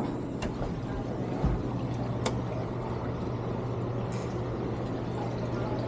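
A steady low mechanical hum over a faint noisy background, with a single sharp click about two seconds in.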